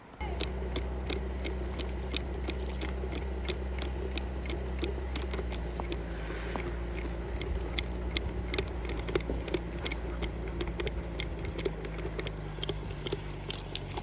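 Old Honda motorcycle engine running steadily as it drives a homemade ski rope tow, with a dense run of irregular clicks and crunches over the engine's hum.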